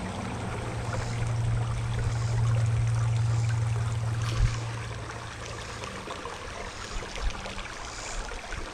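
Creek water babbling over rocks, with the low rumble of highway traffic passing over the bridge. The rumble is loudest in the first half and fades after a short knock about four and a half seconds in.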